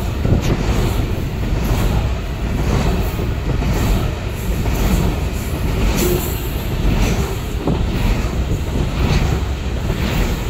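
Coal-loaded goods train wagons rolling past beneath a bridge: a steady rumble of steel wheels on rail, with clacks recurring about once a second.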